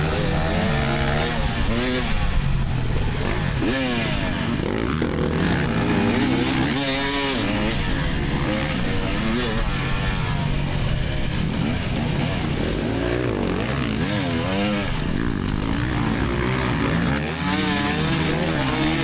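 2024 GasGas EX300 two-stroke dirt bike engine revving up and down under throttle while racing, its pitch rising and falling every second or two.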